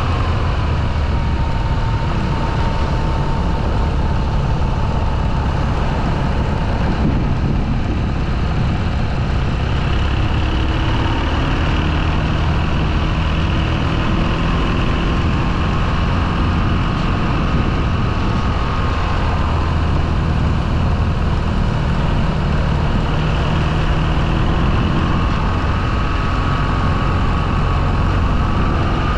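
Motorcycle engine running steadily on the move, with a thin high tone that drifts slowly up and down in pitch.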